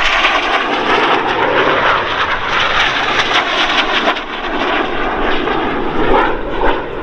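BAE Hawk T1 jets of the Red Arrows flying by, their Rolls-Royce Adour turbofans giving a loud, steady jet roar that swells and eases slightly a few times.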